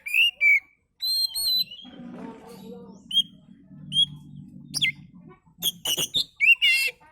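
Oriental magpie-robin (kacer) singing: a run of short whistled notes and chirps mixed with sharp clicks and raspy calls. A low hum sits underneath for a few seconds in the middle.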